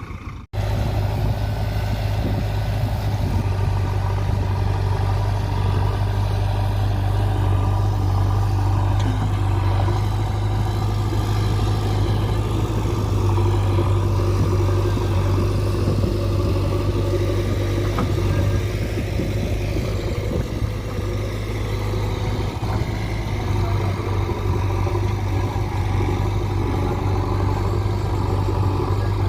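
Heavy diesel engine of a land-leveling machine running steadily at an even speed, with a strong low hum. The sound breaks off for an instant about half a second in, then carries on unchanged.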